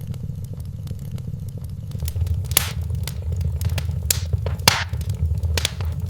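Wood fire crackling in a fireplace: a steady low rumble of flames under many small crackles, with a few louder pops and snaps from about halfway through.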